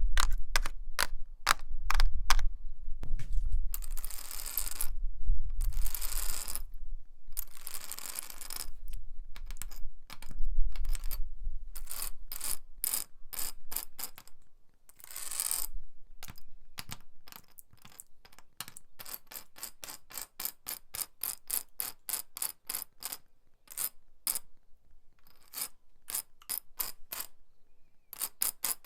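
Metal nails worn on the fingertips tapping and scratching a wall: quick runs of sharp taps, several a second, with a few longer scrapes in between.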